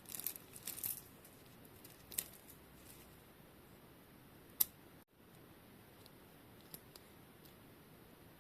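Quiet scratchy rustling and a few sharp little clicks from a bicycle chain being handled while it is cleaned of old grease, with the loudest click about halfway through.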